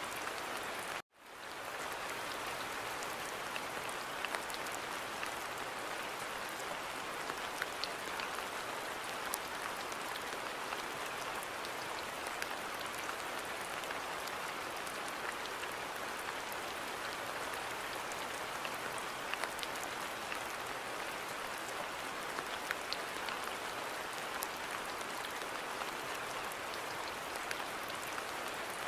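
Steady rain falling in a garden: an even hiss with scattered single drops ticking through it. About a second in, the sound drops out to silence for an instant, then fades back up.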